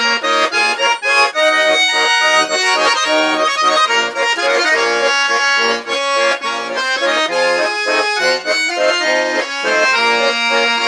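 Accordion playing an instrumental interlude between sung verses: a melody over rhythmic pulsing chords and bass notes.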